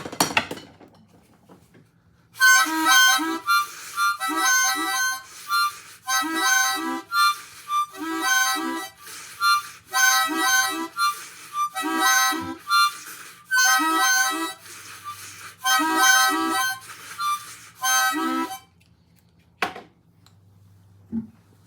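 Harmonica played in about nine short repeated chord phrases, each a second or two long, starting about two seconds in and stopping near the end.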